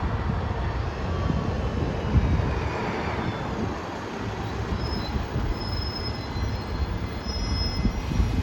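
A bus running with steady engine and road rumble, with faint high-pitched squeals in the second half.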